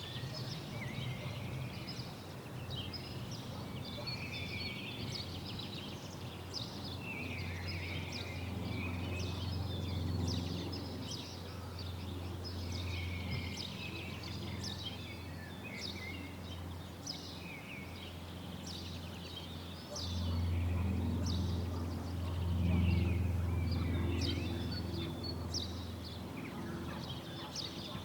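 Many small birds chirping and twittering throughout, over a steady low rumble that grows louder about two-thirds of the way through.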